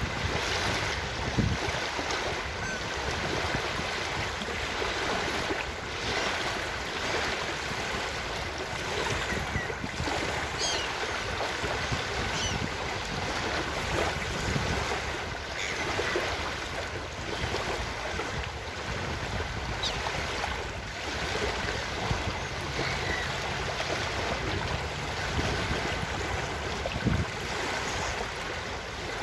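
Ocean surf washing continuously onto a beach, with wind buffeting the microphone.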